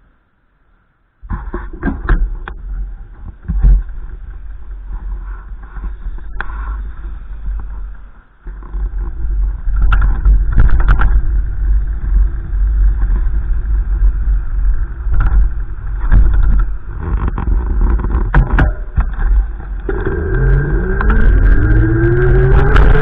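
Wind buffeting the microphone with a heavy low rumble, starting suddenly about a second in. Near the end a vehicle engine accelerates, its pitch rising steadily.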